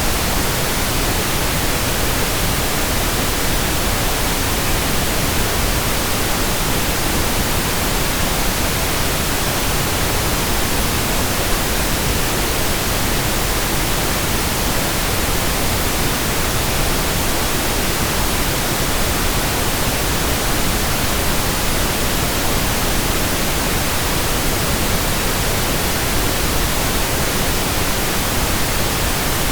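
Steady pink noise: an even, unchanging hiss across the whole range, with no events or variation.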